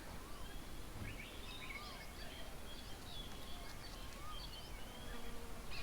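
Several birds calling around a bird table: a short rising-and-falling call repeats about every second and a half, over higher chattering calls, against a steady outdoor background hiss.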